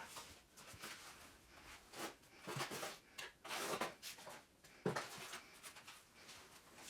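Faint, irregular scraping and rubbing with a few sharp knocks, the louder strokes coming around the middle.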